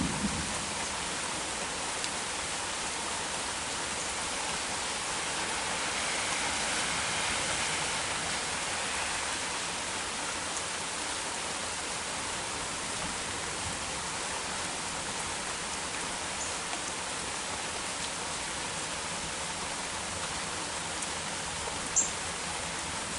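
Heavy rain shower falling steadily, a dense even hiss with a slight swell partway through and a couple of sharp ticks near the end.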